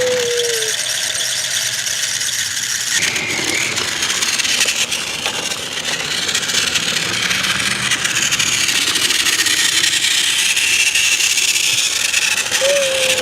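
Battery-powered TrackMaster HIRO toy train running steadily along plastic track, its small motor whirring and its wheels rattling.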